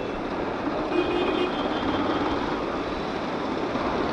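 A motorcycle riding along a road in traffic: a steady rush of wind and road noise.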